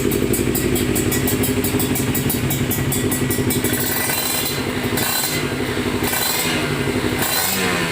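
Kawasaki Ninja R 150's single-cylinder two-stroke engine running just after a cold start: a steady idle at first, then from about four seconds in the throttle is blipped several times, the revs rising and falling.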